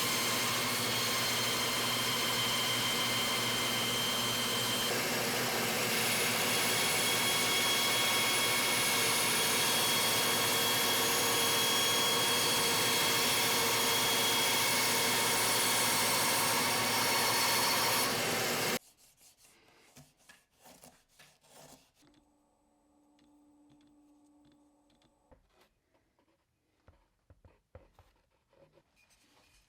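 A woodworking power tool runs steadily while working wood, then cuts off abruptly about 19 seconds in. After that come only faint clicks and small handling sounds.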